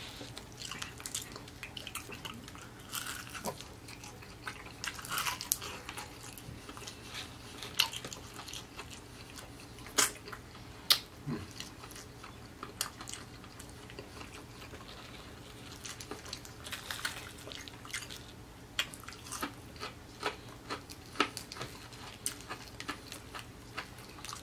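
Close-miked chewing and biting of a crispy fried chicken drumstick, with irregular crunches and clicks.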